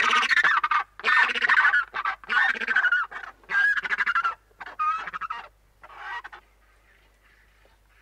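A run of loud, harsh honking bird calls, one after another, stopping about six seconds in.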